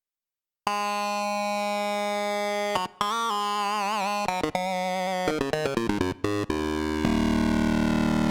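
Roland JX-8P analog polysynth playing a factory patch. After a brief silence a held note starts, then the melody moves to a note with a wavering vibrato and a run of short stepped notes, and a fuller, lower-pitched sound comes in near the end.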